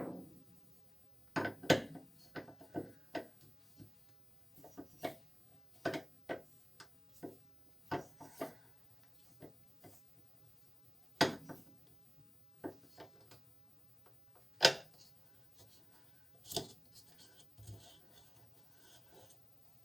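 Irregular clicks, taps and knocks of tools and parts being handled during hands-on repair work, with a few louder knocks about 2, 11, 15 and 17 seconds in.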